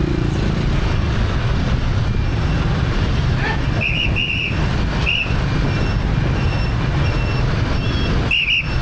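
Steady rumble of motorbike traffic, with short, high-pitched whistle blasts cutting through: three quick ones about four seconds in, one about a second later, and a pair near the end.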